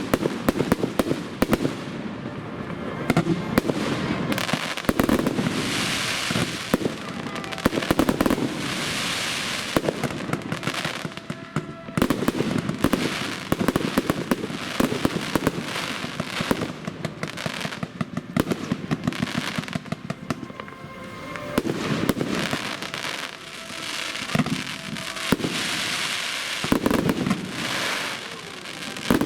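Aerial fireworks display: shells bursting one after another in a dense run of sharp bangs, with crackling in between.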